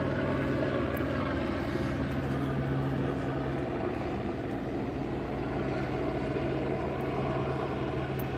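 Police helicopter flying overhead, its steady engine and rotor drone running on without letup.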